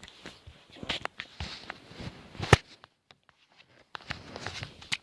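Scattered knocks, clicks and rustling of objects being handled and set down, with one loud knock about two and a half seconds in.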